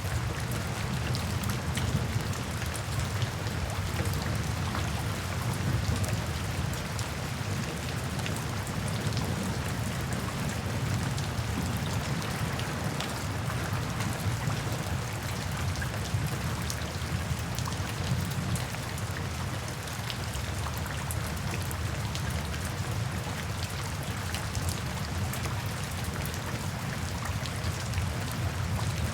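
Steady rain falling, an even hiss with many scattered sharp drop ticks over a low, dense patter.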